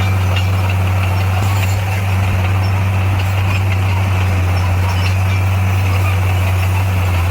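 Bulldozer's diesel engine running steadily with a constant low drone.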